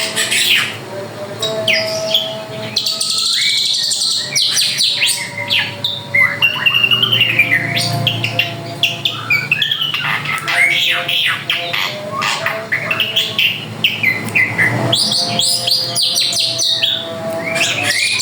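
A drongo singing continuously: a fast, varied stream of whistles, chirps, sweeping glides and harsher notes, with a few held steady tones underneath.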